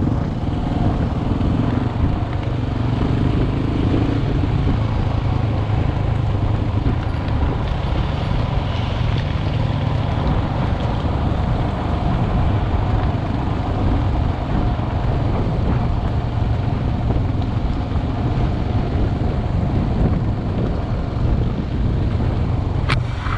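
Single-cylinder dual-sport motorcycle engine running at a steady speed under way, heard from a helmet-mounted camera, with a few sharp clicks near the end.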